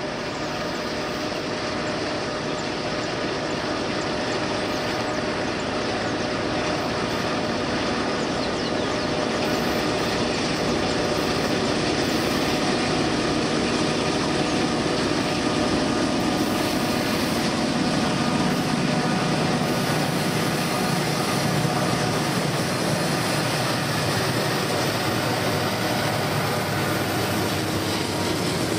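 Several diesel-electric freight locomotives working together at the head of a long freight train as it approaches and passes. A steady engine drone that grows gradually louder over the first half, then holds.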